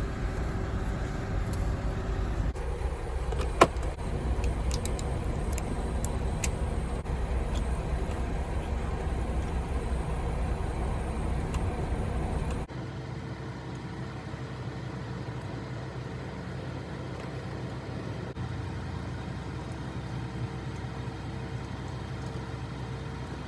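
Semi truck's engine and road noise heard inside the cab while driving, a steady low rumble with a sharp click about four seconds in. About halfway through it cuts abruptly to a quieter, steady engine hum.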